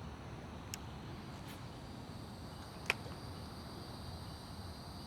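Insects chirring in a steady high drone over a low, even outdoor rush, with two sharp clicks, one just under a second in and a louder one near the middle.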